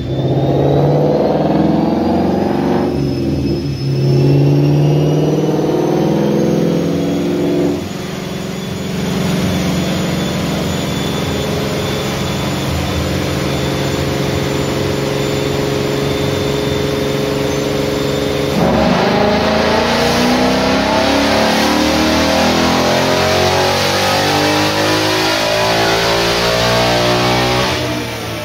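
A 2018 Ford Mustang GT's 5.0 Coyote V8, with an X-pipe and muffler-delete exhaust, running on a chassis dyno. The engine holds a steady note, then about two-thirds of the way through goes into a full-throttle pull, rising in pitch and easing off near the end.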